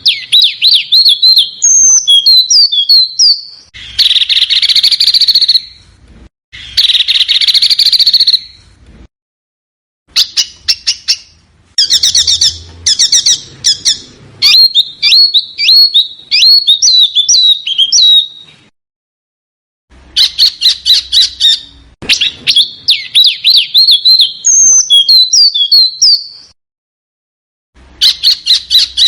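Small songbirds singing in rapid high chirps and trilled phrases, with two harsh rasping calls a few seconds in. The phrases break off abruptly into short silent gaps, three times.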